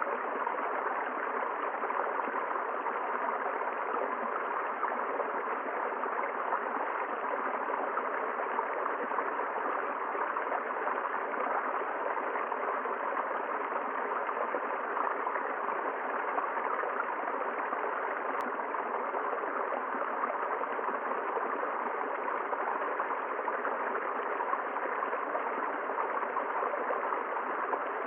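River water flowing steadily over rocks, an even, unbroken rush.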